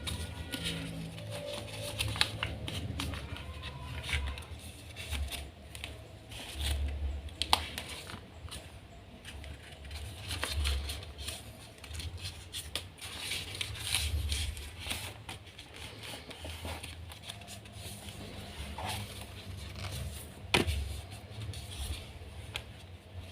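A square sheet of origami paper being handled and folded by hand: irregular rustling and crinkling, with a few sharp crisp clicks as creases are pressed, over dull low bumps.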